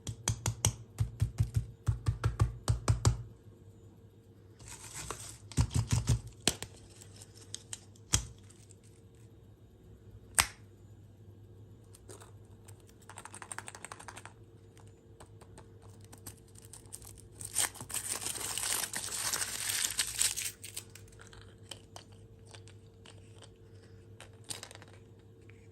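Handling of food packaging: two runs of quick taps and clicks, a few single clicks, then about three seconds of wrapper crinkling and tearing.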